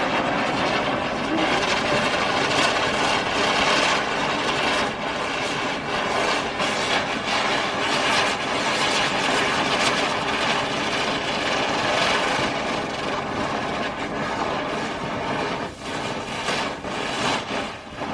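Ground spinner firework (chakri) burning and spinning on the ground: a steady, loud hiss of spraying sparks with crackles through it, faltering near the end.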